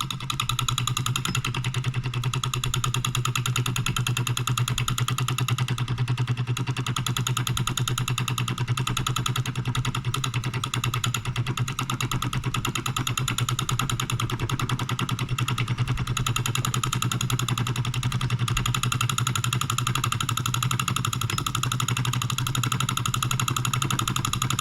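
Wilkemp Jr. Model E electric solenoid engine running steadily: a rapid, even clatter from its reciprocating mechanism over the steady electric hum of its solenoid coil.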